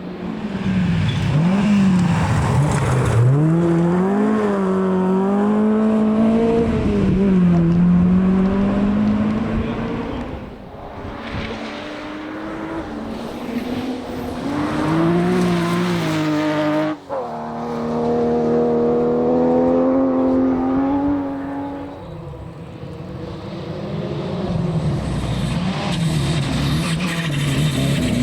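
Rally car engine revving hard on a gravel forest stage, its pitch rising and falling with throttle and gearchanges. About 17 s in the engine cuts out for an instant, then pulls hard again and fades away. Another engine starts to rise near the end.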